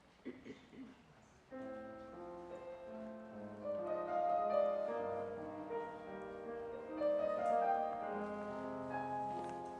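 Piano playing a slow introduction, starting about one and a half seconds in.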